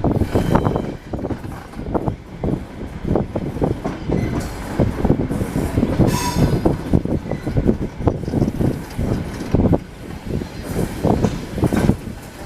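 ED9M electric multiple unit running along the track: its wheels clatter and knock irregularly over the rails, with a brief high wheel squeal about six seconds in.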